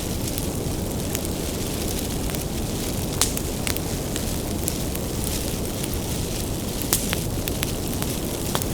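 Bonfire of firewood burning: a steady low rumble of flames with irregular sharp crackles and pops, two louder pops about three and seven seconds in.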